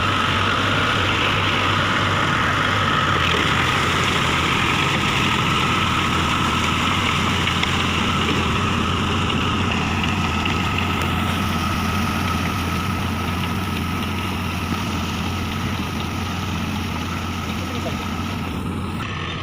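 Mahindra Arjun Ultra-1 555 DI tractor's diesel engine running steadily, with a constant low hum, fading slightly over the last few seconds.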